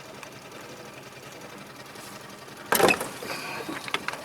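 Small boat motor idling steadily with an even mechanical patter. About two-thirds of the way through, a loud, brief rush of noise cuts across it.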